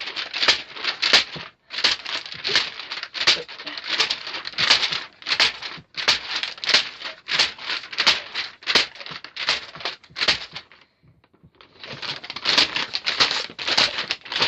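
A folded paper craft being smashed and crushed: a quick run of crunching, crinkling paper strikes, two or three a second, that stops for about a second near the end and then starts again.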